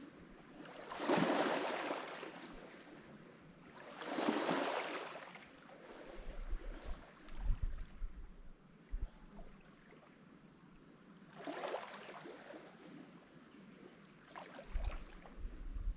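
Lake Michigan waves breaking and washing onto the shore, three separate washes rising and falling away, about one second, four seconds and eleven seconds in. Low rumbling buffets come in between.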